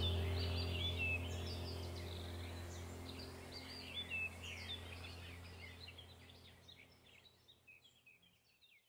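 Small birds chirping and twittering over a faint, steady low hum, the whole sound fading out gradually toward the end.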